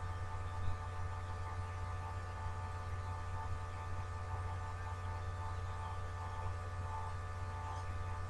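Steady electrical hum with a few faint constant tones above it, and one soft tick about a second in.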